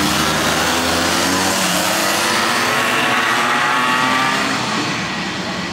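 Several racing karts going by at high revs, their engine notes overlapping and gliding slightly down in pitch as they pass, the sound easing off a little near the end.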